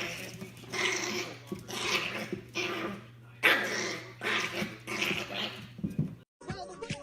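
A dog growling and barking in a series of rough bursts about once a second, over a steady low hum; it cuts off suddenly about six seconds in.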